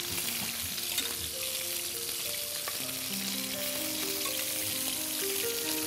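Chicken wings sizzling steadily as they fry in a pan, with a whisk stirring milk in a saucepan. Soft background music underneath.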